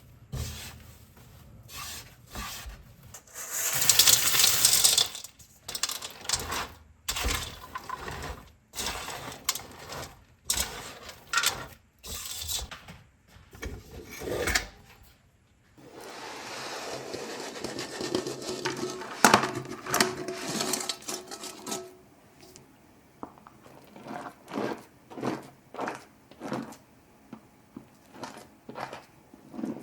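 Cafe kitchen handling sounds: a run of clinks, taps and knocks of dishes and utensils, with a loud hiss about four seconds in and a few seconds of steady rushing noise past the middle.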